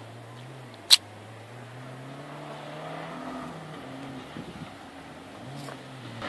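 Distant rally car engine revving as it is driven hard round a dirt track, its pitch rising and falling. There is one sharp click about a second in.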